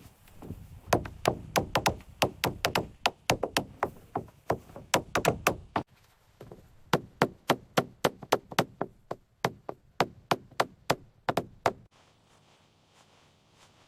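Hammering on wood: a quick series of sharp knocks, about four a second, in two runs of about five seconds each.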